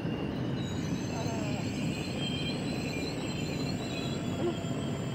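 Intercity passenger train coaches rolling past on the rails, a steady rumble of wheels on track with faint high-pitched tones above it.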